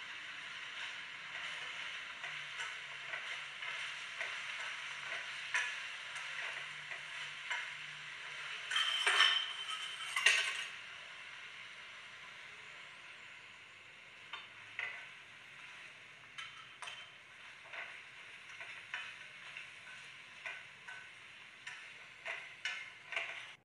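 Fried chicken wings sizzling in sauce in a small wok over a low flame, the sauce cooking down into the wings, while a utensil stirs them with scattered clicks and scrapes against the pan. About nine seconds in there is a louder burst of scraping and tossing, and after about eleven seconds the sizzle is quieter.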